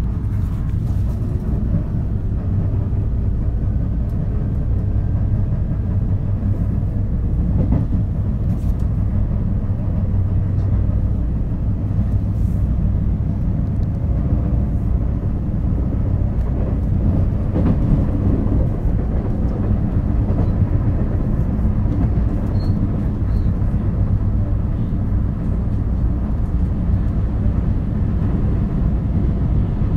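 Running noise of a JR West 223 series electric multiple unit, heard inside its KuMoHa motor car: a steady rumble of wheels on rail at speed. It carries the knock of a flat spot on a wheel.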